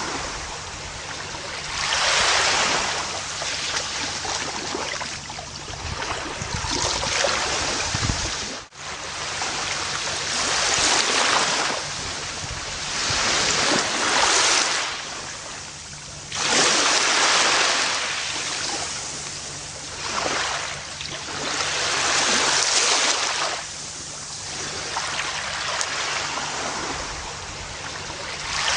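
Small ocean waves breaking and washing up on a beach, one surge every few seconds. There is a sudden brief gap about nine seconds in, and another wave comes in abruptly about halfway through.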